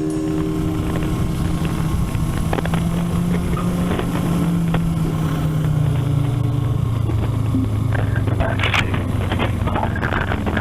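Kawasaki Ninja 650R parallel-twin engine heard from a helmet-mounted camera, its revs falling steadily over the first six seconds and then holding lower as the bike slows, with wind noise on the microphone.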